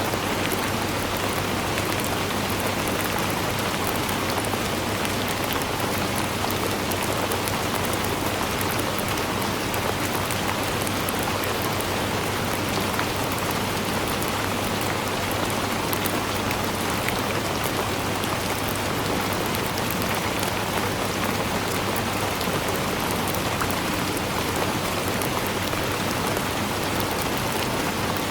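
Steady rainfall: a dense, even hiss of rain with fine drop patter hitting surfaces, unchanging throughout.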